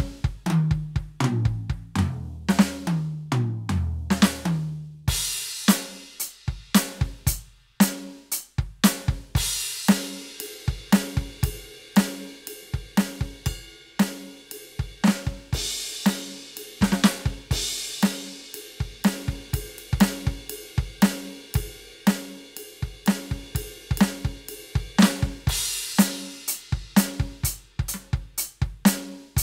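A Roland TD-17KVX electronic drum kit played through its module's drum sounds. It opens with a tom fill stepping down in pitch, then settles into a steady beat of kick, snare and hi-hat with crash cymbals struck now and then.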